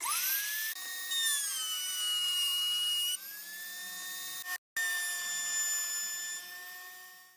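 High-pitched whine of a small high-speed power-tool motor, spinning up at the start and then running steadily. The pitch shifts abruptly a couple of times, and the sound cuts out for an instant a little past the middle.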